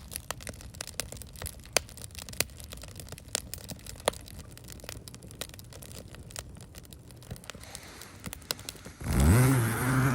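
Wood fire in a large fire pit, crackling and popping with many sharp snaps over a steady rush of burning. Near the end a short, loud voiced sound from a person rises in pitch and holds for about a second.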